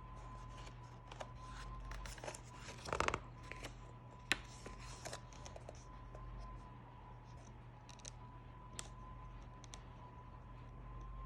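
Irregular scratching and scraping with scattered sharp clicks, busiest about three seconds in, over a faint steady hum and a thin steady tone.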